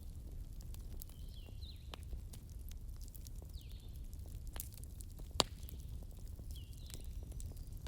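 Wood campfire crackling, with scattered sharp snaps, one loud pop about five seconds in, and a low steady rumble of the burning fire. A short high chirp repeats every second or so in the background.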